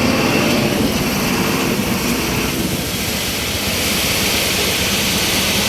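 A heavy vehicle engine running loud and steady close by, with a rough low rumble under a wide rushing noise.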